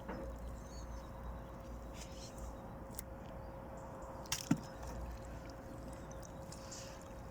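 Water trickling and dripping off a fishing net as it is hauled into a small boat, with a couple of sharp knocks about three and four and a half seconds in.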